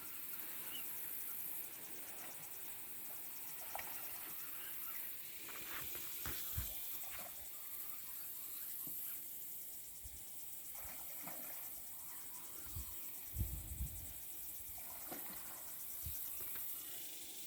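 Outdoor ambience with a steady high insect trill, broken by a few soft low thumps, the largest about thirteen seconds in.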